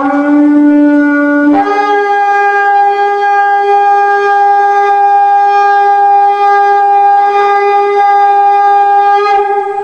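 A shofar blown in one long blast: a short lower note that bends slightly upward, then about a second and a half in a leap to a higher note held for about eight seconds.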